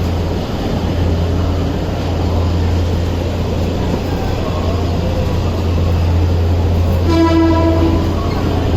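Steady low rumble and hum of a moving train, with one train horn blast lasting about a second near the end.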